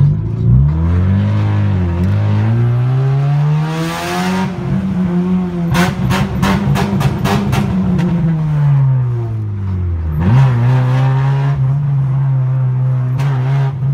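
Car engine running on LPG, pulling up through the revs, holding, easing off around nine seconds in and then settling at a steady speed after a quick rev change. A rapid run of about eight clicks comes about six to seven and a half seconds in.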